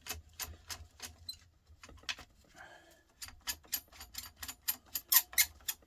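Sharp metallic clicks and clinks as loosened bolts are worked out of a Volvo truck starter motor, scattered at first, then a quick, even run of several clicks a second through the second half.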